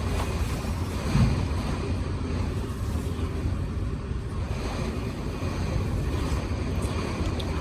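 Strong storm wind blowing hard across the microphone, a steady low rumble with a brief heavier gust about a second in.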